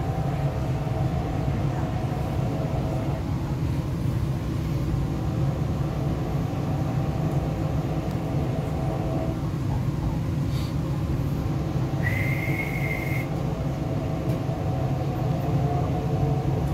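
MTR East Rail Line R-Train heard from inside the car while running: a steady rumble of wheels on rail, with the traction motors' whine fading and returning and rising near the end. A brief high whistling tone sounds about twelve seconds in.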